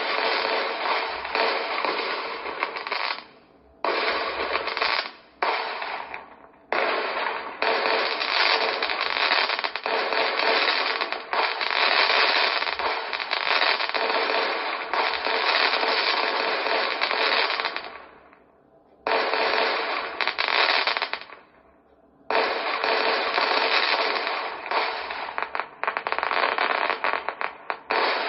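Fireworks display: aerial shells and ground fountains bursting and crackling in a dense, continuous barrage of bangs. The sound cuts out abruptly to near silence several times for a second or so, then comes back.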